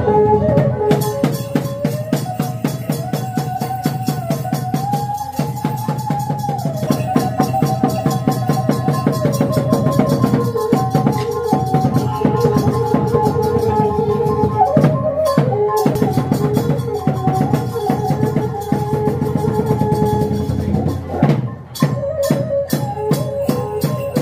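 Khmer chhay-yam troupe music: fast, steady drumming and percussion under a lead melody of long held notes that slide between pitches. The music breaks off briefly about 21 seconds in, then picks up again.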